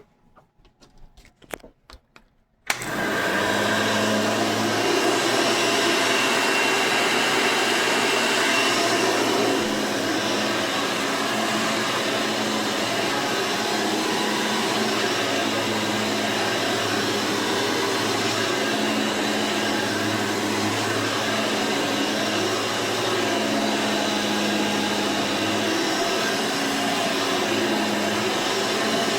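A few faint clicks, then a late-1980s Hoover Elite 350 upright vacuum cleaner switches on suddenly about three seconds in and runs steadily, its motor humming under a loud rush of air.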